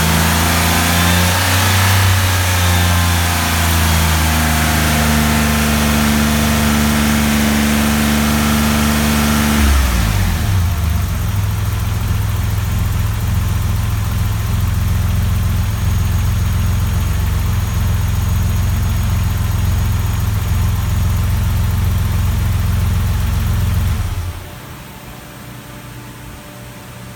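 1988 Porsche 959's twin-turbocharged flat-six running steadily at raised revs, then falling to a lower idle about ten seconds in. The engine stops near the end, leaving a faint steady hiss.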